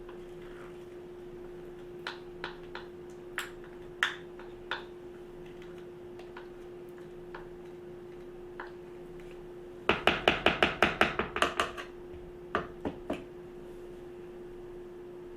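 Kitchen utensils clicking and knocking against a mixing bowl: scattered light clicks, then about ten seconds in a quick run of about a dozen taps, roughly six a second, and a few more after. A steady low hum runs underneath.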